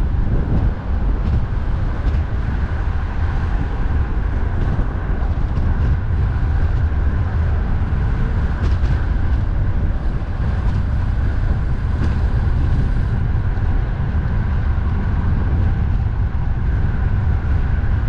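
Strong wind buffeting the microphone of a moving bicycle, a steady low rumble, over the constant noise of heavy road traffic.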